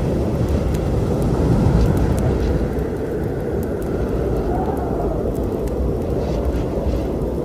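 Storm rumble mixed with a crackling wood fire: a loud, steady low rumble with scattered sharp pops and snaps from the burning wood on top.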